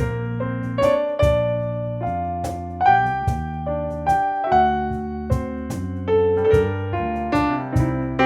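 Electric piano playing an instrumental passage in a slow jazz ballad, chords and melody notes struck about once or twice a second, over a bass line and light drums.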